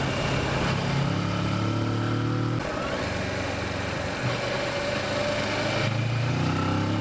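Kawasaki Versys motorcycle engine running as the bike rides along, with a haze of riding noise; the engine note falls away about a third of the way in and comes back stronger near the end, as the throttle is eased off and opened again.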